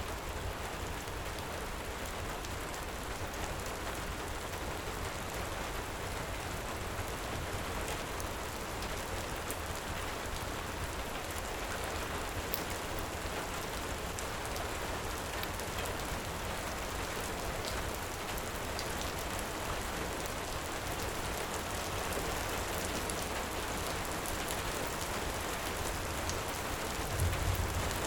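Heavy rain falling steadily, an even hiss with faint scattered ticks. A brief low rumble swells near the end.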